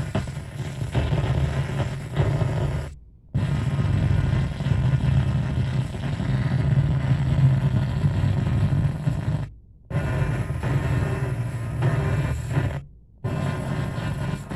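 Garbled, distorted FM radio station audio: a loud noisy mush over a steady low hum, the broadcast badly broken up. It cuts out to silence briefly three times, about 3 s, 10 s and 13 s in.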